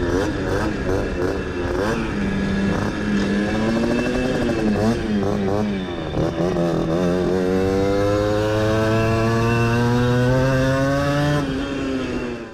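60 cc two-stroke moped engine revving, its pitch rising and falling repeatedly, then climbing in one long steady pull before dropping off suddenly near the end.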